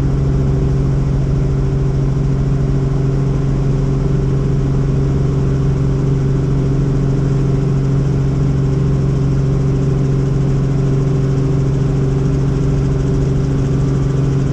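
Helicopter in flight, its engine and rotors making a steady drone with a strong low hum that does not change.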